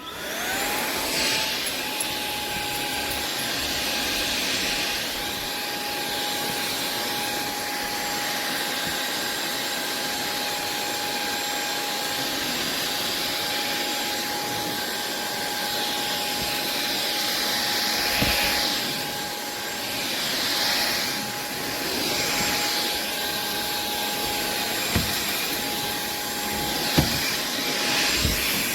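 SunSare X7A cordless stick vacuum switched on, its motor whine rising for the first second or so as it comes up to speed, then holding a steady high whine over a rush of air. It is pushed over a wooden floor sucking up dog hair, with a few light knocks near the end.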